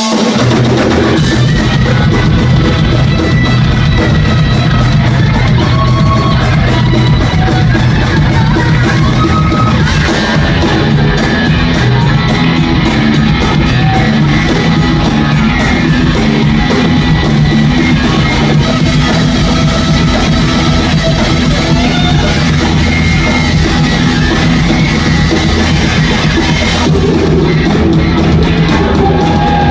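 Live rock band playing loud, steady rock music with guitar and a drum kit.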